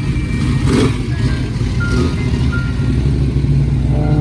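Car engines running with a steady low rumble, with music playing.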